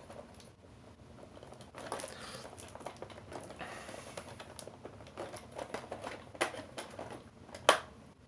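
Toy packaging being handled and worked open: rustling and crinkling with scattered small clicks and knocks, and one sharper click near the end.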